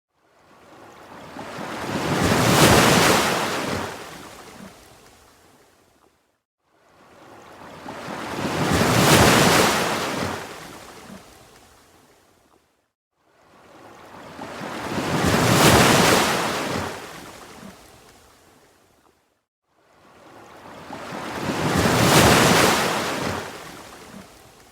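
Ocean waves washing in and out: four even swells of rushing surf, each building up and then fading away to near silence, about every six and a half seconds.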